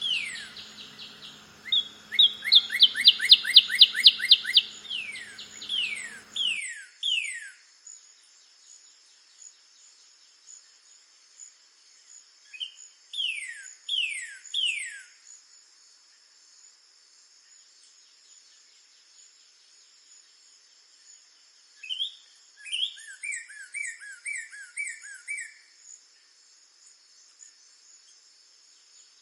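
Northern cardinal singing: clear down-slurred whistles, a fast run of repeated notes a couple of seconds in, a phrase of three slurs in the middle and a quick series of short notes later on, with gaps between. A steady high insect drone runs beneath, with faint high chirps of other birds.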